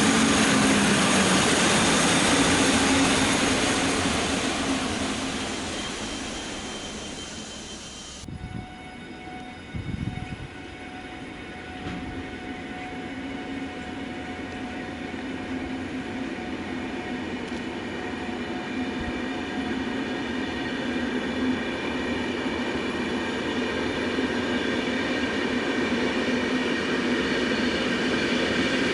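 A train runs past and fades away. After a sudden break, another train is heard coming closer, with steady whining tones that slowly grow louder.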